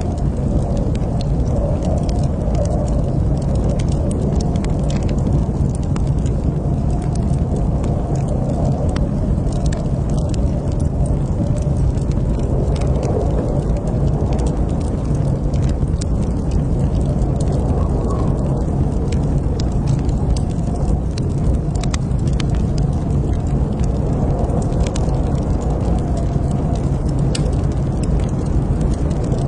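Wood fire in a fireplace burning with a steady low rumble and frequent small crackles and pops.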